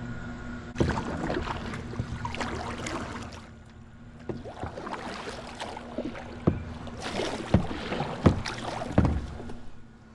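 Kayak paddle strokes splashing and dripping in the water, in three spells with sharp splashes, over a steady low hum.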